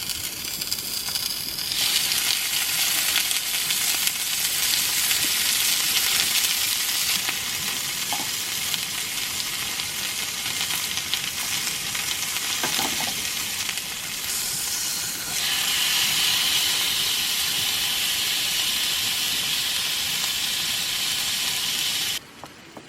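Food frying in a hot pan: a steady, loud sizzle that shifts in strength and pitch a few times and stops abruptly near the end.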